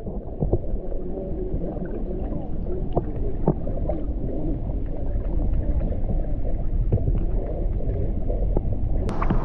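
Waterfall pool water heard with the camera held underwater: a muffled, low rumble with small scattered clicks and ticks. Near the end the camera breaks the surface and the sound opens up.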